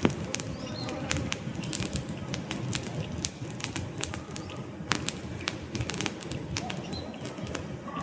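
Wood fire burning in a fireplace: logs crackling with frequent irregular sharp pops over a low steady rush of flame.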